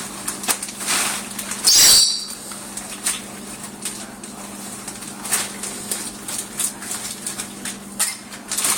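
Peanuts being dropped into parrot food bowls: scattered light clicks and clatters, with a louder sharp clink about two seconds in, over a faint steady hum.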